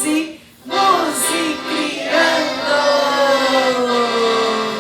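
Voices singing a melody, with a brief break about half a second in, ending on a long held note that slides slowly down.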